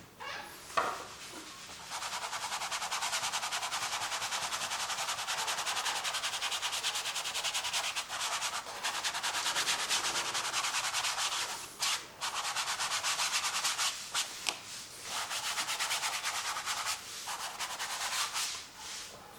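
A painting tool rubbed and scrubbed rapidly across a canvas, spreading acrylic paint with a steady dry scratching that starts about two seconds in and pauses briefly a few times in the second half.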